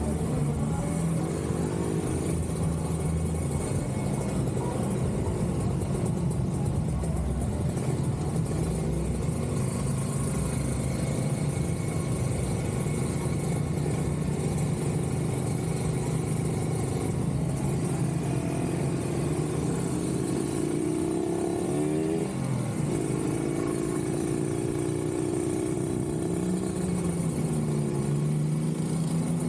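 Kawasaki Ninja 150RR's two-stroke single-cylinder engine running while riding in city traffic. Its pitch rises about two-thirds of the way through and then drops abruptly, with more rising and falling revs near the end.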